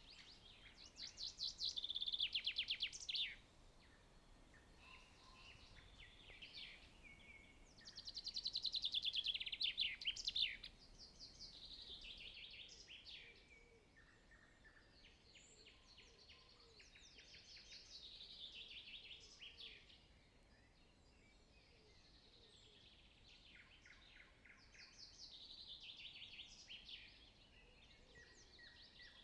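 A songbird singing a repeated song phrase, a quick run of notes falling in pitch and ending in a short flourish. Two louder phrases come in the first ten seconds, then fainter ones follow every few seconds.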